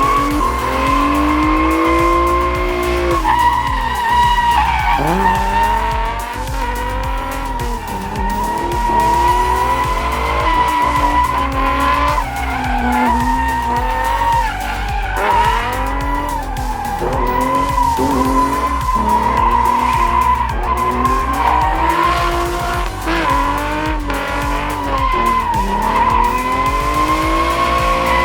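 Car drifting: a sustained tire squeal over an engine revving up and down again and again.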